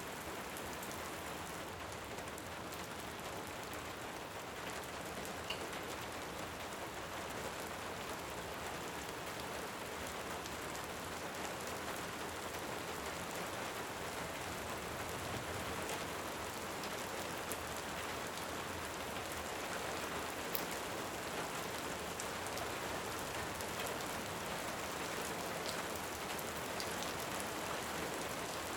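Steady rain, an even hiss, with a few faint sharp ticks scattered through it.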